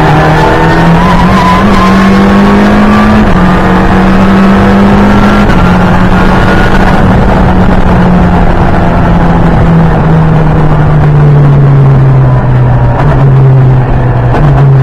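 Ford Fiesta EcoBoost engine heard from inside the caged cabin on track. The revs climb, drop sharply about three seconds in as it shifts up, then hold and slowly fall away before picking up again near the end. A thin rising whine rides over the engine in the first couple of seconds.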